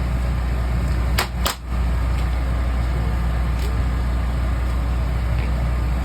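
An engine running steadily with a low hum, with two sharp knocks about a second and a half in as the hum briefly drops.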